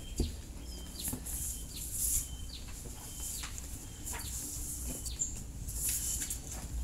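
A small bird chirping over and over, short dipping calls about one or two a second, with soft rubbing from a hand wiping a whiteboard clean.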